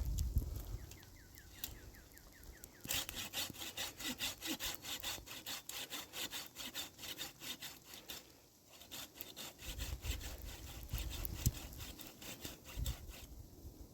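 Hand saw cutting wood, a long run of quick, even back-and-forth strokes that starts about three seconds in and stops shortly before the end.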